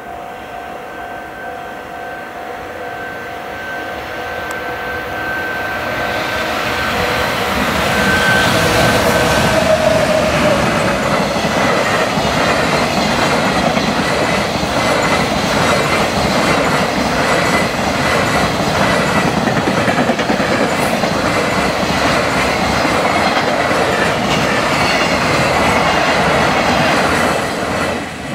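Long freight train approaching a level crossing at speed and running through. The noise builds as the locomotive passes about eight to ten seconds in, followed by a long steady rhythmic clatter of container wagon wheels over the rail joints, which drops off suddenly near the end as the last wagon clears. A level-crossing warning alarm rings at the start and is drowned out as the train arrives.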